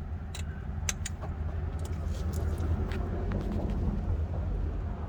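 A few light metallic clinks of hand tools and loose engine parts being handled during an alternator job, over a steady low rumble. The two clearest clinks come in the first second.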